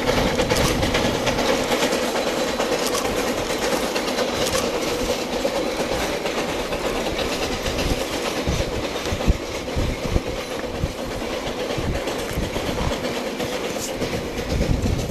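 Narrow-gauge coal train rolling along the track, its wheels clacking over the rail joints in a steady run, with two sharp knocks a little past the middle.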